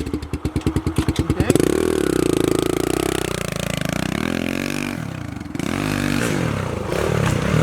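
Pit bike engine ticking over in even pulses, then revved hard about a second and a half in, its pitch rising and falling as the bike is ridden at a dirt jump. The engine note drops around the five-second mark and picks up again near the end.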